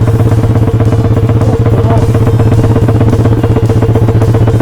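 Small mini-bike engine running at a steady pitch while riding along.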